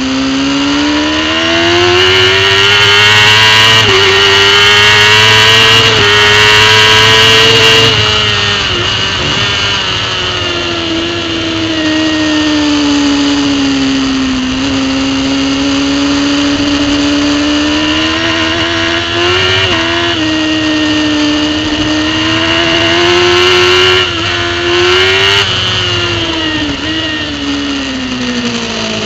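Racing superbike engine heard from onboard at full throttle, its pitch climbing with quick upshifts, then dropping away as the rider brakes and downshifts, and climbing through the gears again before falling near the end. A steady rush of wind runs underneath.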